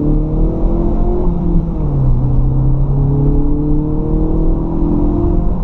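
2016 Hyundai Veloster Turbo's turbocharged 1.6-litre four-cylinder on its stock exhaust, heard from inside the cabin, accelerating. The engine pitch climbs and drops at a gearshift about a second and a half in, then climbs again to another shift near the end.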